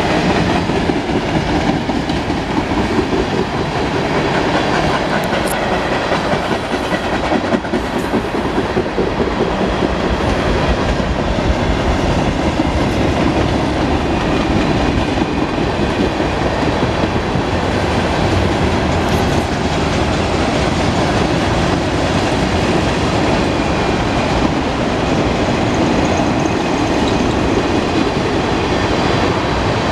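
Union Pacific mixed freight train's cars, mostly tank cars, rolling past: a steady, even noise of steel wheels running on the rails.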